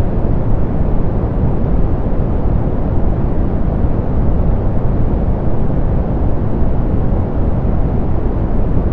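Softened pink noise: a steady, unchanging hiss weighted toward the low end, with little treble.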